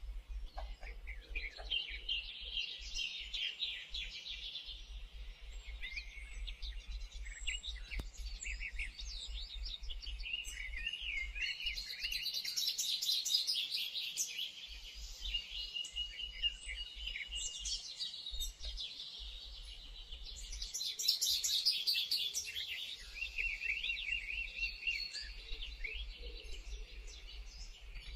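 Several birds chirping and calling over one another, with fast, even trills in the middle and again near the end.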